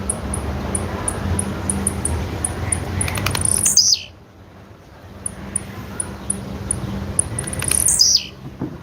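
Blue-black grassquit (tiziu) calls: a run of very short, high chirps at about three a second, twice broken by a longer note that falls steeply in pitch, over a low steady hum. These are presented as the female tiziu's call.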